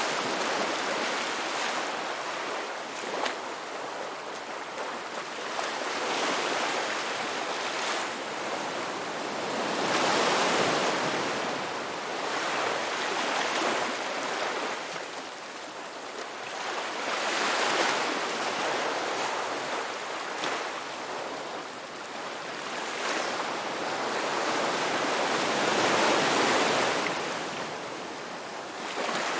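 Ocean waves breaking as surf, the wash swelling and fading every few seconds.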